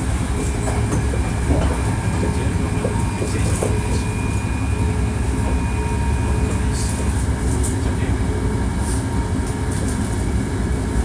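Hankyu 1300 series electric train running at speed: a steady low rumble of wheels on rail with scattered faint clicks. A thin, steady high whine fades out about seven seconds in.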